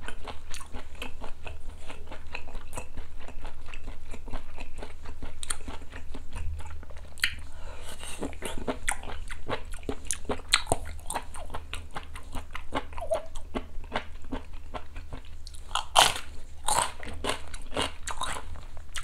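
Close-miked chewing of a mouthful of sundae (Korean blood sausage) hot pot: a dense run of quick wet mouth clicks, with a couple of louder clicks about sixteen and seventeen seconds in.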